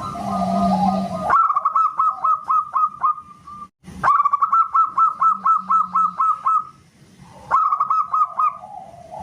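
Zebra dove (perkutut) song: three runs of rapid repeated cooing notes, about five a second, each run stopping abruptly.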